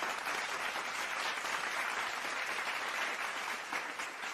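Steady applause that thins a little near the end.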